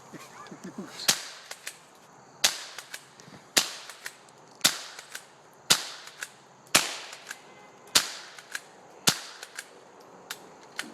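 Steady series of eight gunshots, about one a second, starting about a second in, with fainter cracks between them.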